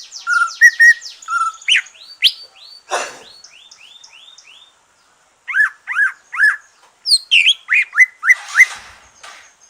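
Green leafbird (cucak ijo) singing a varied song of quick chirps and whistled notes. The song opens with a fast run of falling notes and has a short raspy note about three seconds in. After a brief pause come three sweeping notes and another rapid string of calls. The bird has just finished its moult and is back in song.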